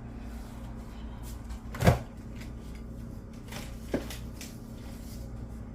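A single sharp knock about two seconds in, then a lighter click about four seconds in, over a steady low hum: kitchen handling sounds, like a cupboard door or a pan being set down.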